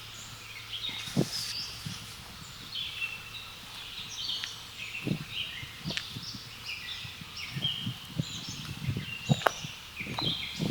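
Several songbirds chirping and singing over one another in short, quick phrases, with now and then a soft footstep of someone walking.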